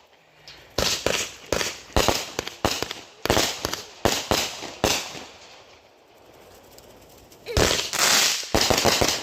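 Firecrackers going off in a rapid series of sharp bangs, about two a second for several seconds. After a short lull come louder, longer crackling bursts near the end.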